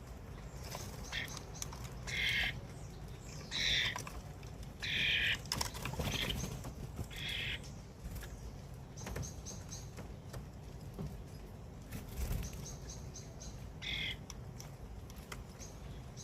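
Wild birds at a feeder calling: short rasping calls repeated every second or two, mixed with thin high chirps, and a few sharp taps.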